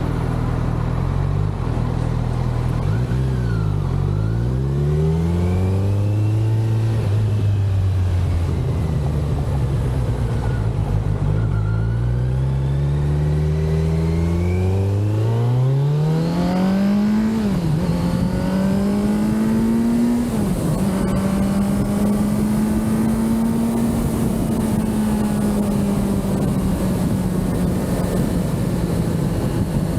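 Kawasaki Z900 motorcycle's inline-four engine running: its revs rise and fall, then climb steadily, drop sharply twice in quick succession, and hold a high, steady note.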